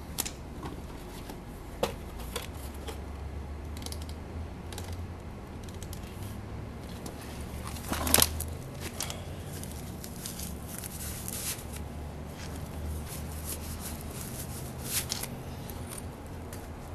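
Scattered clicks and rustles of handling in a small workshop, with a sharp clack about eight seconds in, over a steady low hum.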